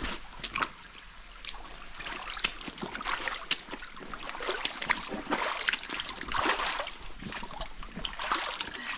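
Footsteps splashing through shallow stream water over rocks and debris, in irregular swells of splashing with scattered clicks and knocks.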